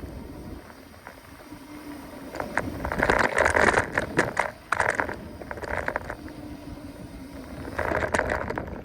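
Mountain bike ridden over a rough trail: tyre noise and rattling knocks over bumps, loudest from about three to five seconds in and again near the end.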